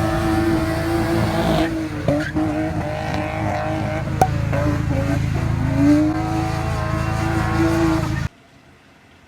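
BMW E36 engine held at high revs while drifting, with tyres squealing; the revs dip and climb back a few times. It cuts off suddenly about eight seconds in, leaving only faint background noise.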